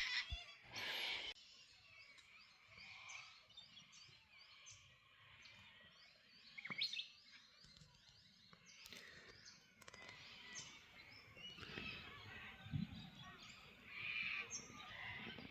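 Faint outdoor ambience with small birds chirping and twittering, and a couple of sharp clicks about seven and nine seconds in.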